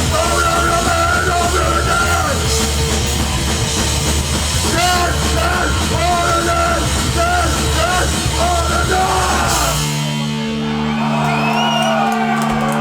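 Live hardcore punk band playing loud, distorted music with yelled vocals. About ten seconds in, the full band stops and a held guitar chord rings on.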